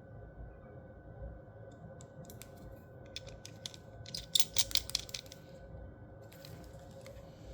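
A run of small sharp clicks and clacks, densest and loudest about four to five seconds in, from handling a metal sonic screwdriver replica.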